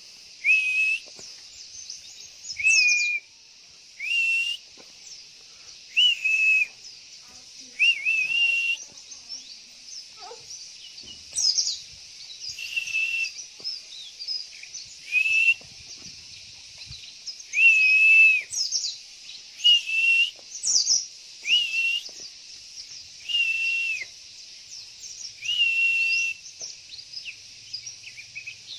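Pleci (white-eye) calling: over a dozen short whistled calls, one every second or two, some with sharp higher notes, over a steady high background.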